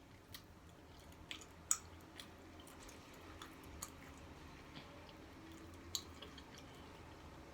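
Close-miked chewing of a taco: soft wet mouth sounds with scattered sharp little clicks, the sharpest a bit under two seconds in.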